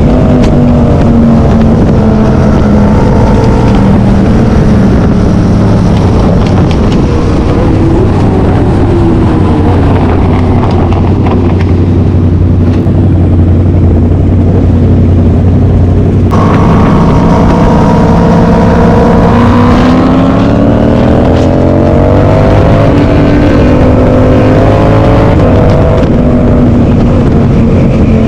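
Several vehicle engines running loudly together, overlapping, with revs rising and falling at times.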